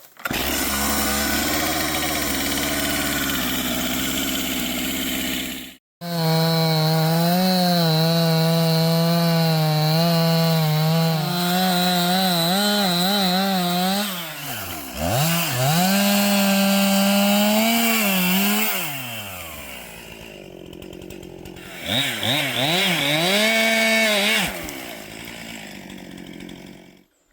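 Stihl two-stroke chainsaw cutting into a tree, held at high revs with the pitch wavering under load. It drops to idle for a few seconds, revs up again briefly, then dies away near the end. The sound breaks off abruptly about six seconds in.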